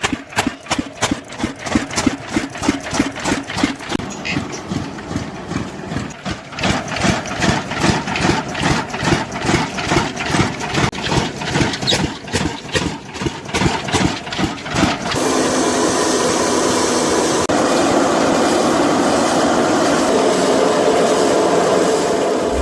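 Walchand Cooper stationary diesel engine running with slow, evenly spaced firing beats, about three to four a second. About fifteen seconds in, the sound changes to a steady, continuous run with no separate beats.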